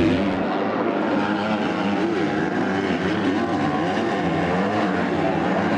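Motocross bike engines racing, the pitch rising and falling over and over as the riders work the throttle through the track.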